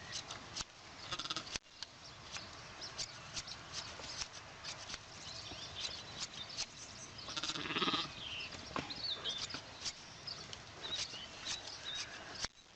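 A sheep bleats once, loud, a little past the middle, over many small clicks and knocks.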